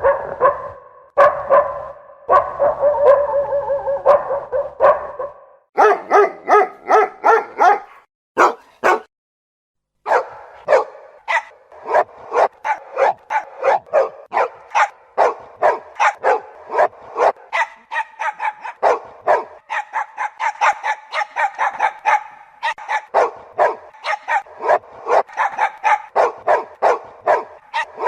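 Dogs barking, a run of different recordings. The first few seconds hold longer, drawn-out, pitched calls. After a brief silence about ten seconds in comes fast, steady barking at about three to four barks a second.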